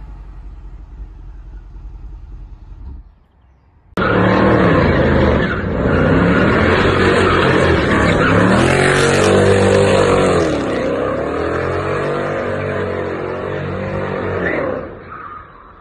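Mercedes-Benz CLS 63 AMG V8 engine, loud, accelerating with its pitch climbing and dropping several times. Before that, a quieter stretch of engine sound falls in pitch and dies away about three seconds in.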